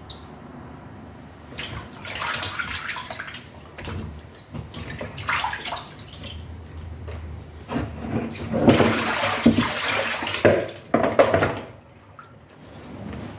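Water running from a kitchen tap into a sink with splashing, in three spells with short pauses between them, the longest and loudest near the end.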